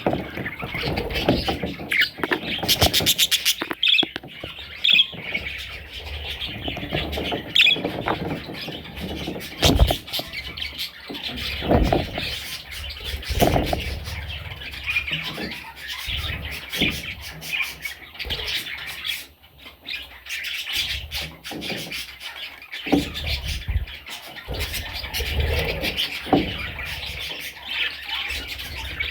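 Budgerigars chirping, a continual run of many short high chirps, with scattered sharp knocks mixed in.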